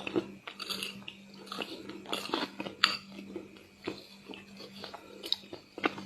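Close-miked mukbang eating sounds: a mouth chewing chocolate paste with small crispy chocolate chunks, giving irregular wet crunches and sharp clicks.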